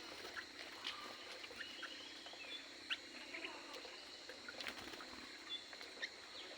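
Aviary birds chirping and calling, many short chirps scattered irregularly, over a steady high-pitched drone.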